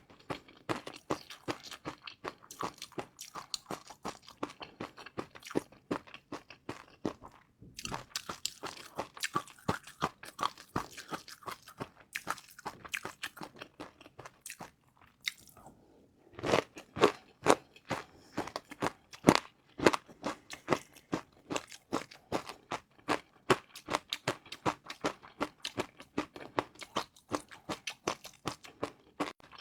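A person chewing crunchy crispy noodles close to the microphone: rapid, dense crunches that stop briefly about eight seconds in and again around fifteen seconds in. The loudest crunching comes with a fresh bite just after that second pause.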